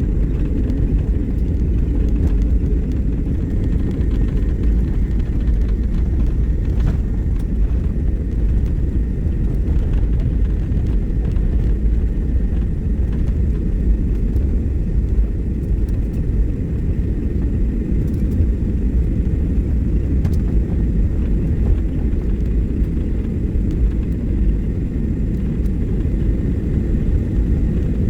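Steady low rumble inside an airliner's cabin during its landing, with no change in level.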